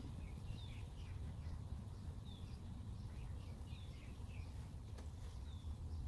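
Small birds chirping, short high notes repeated at irregular intervals, over a steady low outdoor rumble.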